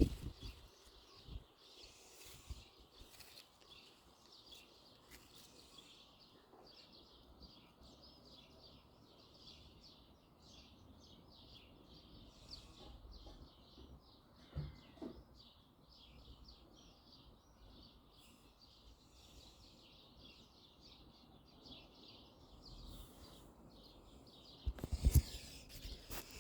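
Small birds chirping, with a long run of short, high chirps repeated several times a second. A low thump comes about halfway through, and more thumps come near the end.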